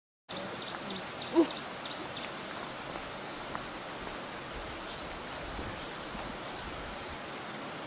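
Outdoor ambience of birds calling over a steady hiss. There is high chirping, then a short loud hoot about a second and a half in, then a run of quick repeated high notes.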